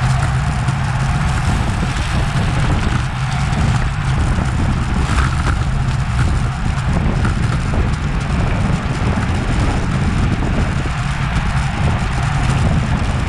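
Steady loud wind rush buffeting a bike-mounted action camera's microphone while riding at race speed, with road noise underneath.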